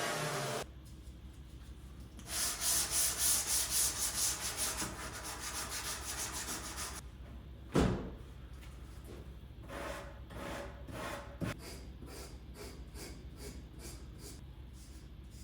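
Wood being sanded by hand with sandpaper: rhythmic back-and-forth strokes, about three a second, louder for several seconds and then lighter, with a single knock in the middle. A machine hum cuts off just after the start.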